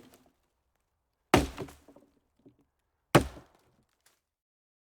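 Two sharp chopping impacts, about a second and a half apart, each dying away quickly, with dead silence between them.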